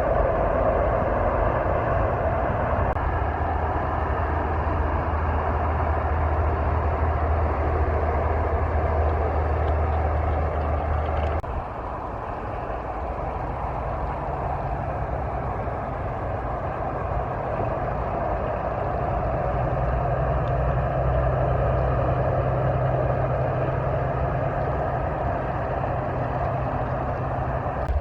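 Truck engine running steadily. About eleven seconds in, the engine note drops abruptly, then settles into a new, higher steady note.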